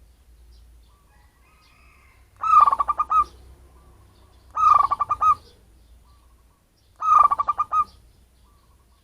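Zebra dove (perkutut) cooing: three short rippling coos about two seconds apart, each a quick run of notes, with faint calls of other birds between them.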